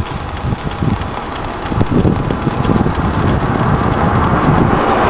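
Storm wind buffeting the microphone in irregular low thumps, building into a steadier rushing gust from about two seconds in.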